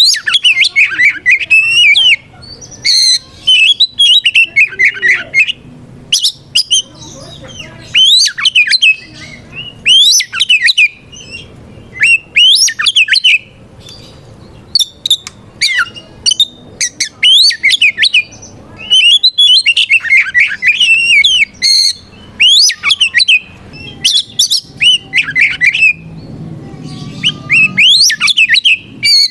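Oriental magpie-robin (kacer) singing a loud, full territorial challenge song that calls out a rival. It comes as phrases of rapid, varied notes a second or two long, broken by short pauses.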